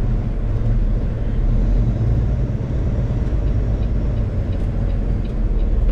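Semi truck's diesel engine running steadily at low speed, a deep even rumble.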